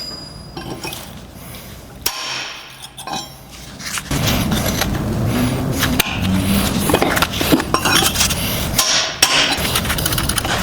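Hammer blows on steel: a run of sharp metallic strikes and clinks as thin steel rose petals are hammered down cold onto the stem's square tenon. A steady low background noise grows louder about four seconds in.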